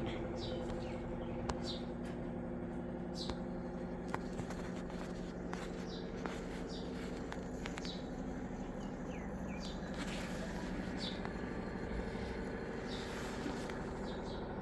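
A steady low mechanical hum, with short high chirps, like birds, every second or so and a few faint clicks.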